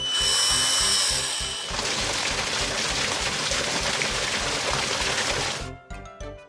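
Children's cartoon background music with a loud noisy sound effect over it. The effect carries a high steady tone for about the first second and a half, then turns into an even hiss and cuts off suddenly about five and a half seconds in.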